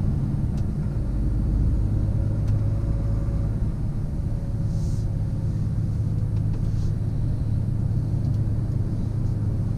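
Scania truck heard from inside the cab while driving, its engine and the road giving a steady low drone and rumble.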